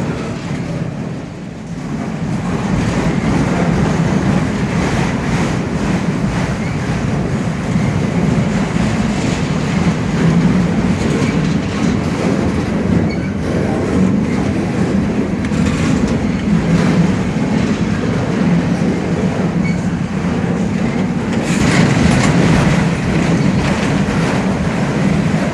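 Freight train cars rolling past: a steady, loud rumble of wheels on rail, with repeated clicks as the wheels cross the rail joints.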